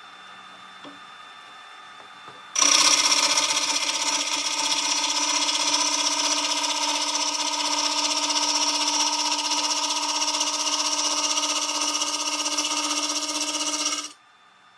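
Lathe turning a wooden snare drum shell, the cutter machining the shell: a loud, steady whine over a cutting hiss starts abruptly about two and a half seconds in and stops abruptly near the end.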